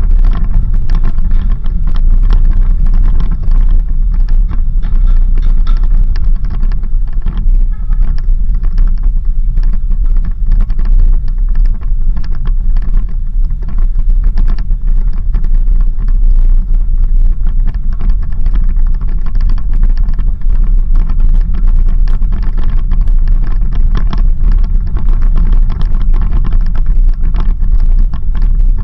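Off-road 4x4 vehicle driving over a dirt road: a loud, steady low rumble with a constant scatter of small knocks and rattles.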